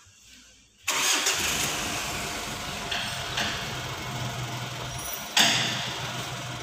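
Mitsubishi Pajero Sport engine starting about a second in and settling into a steady idle, with its power steering freshly topped up after running out of fluid. A sudden louder surge about five seconds in comes as the steering wheel is turned, with air still in the system before bleeding.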